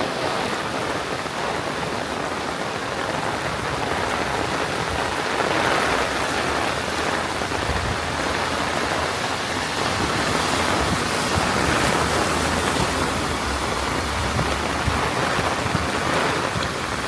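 Heavy rain pouring in a steady, dense rushing hiss.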